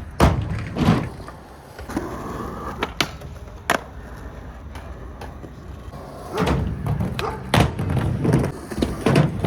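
Skateboard wheels rolling on concrete, with sharp clacks of the board hitting the ground. The rolling gets louder and busier with repeated knocks over the last few seconds.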